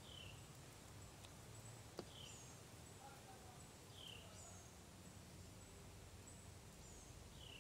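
Near silence with faint outdoor ambience: a bird repeats a short, downward-slurred call about every two seconds. A single sharp click comes about two seconds in.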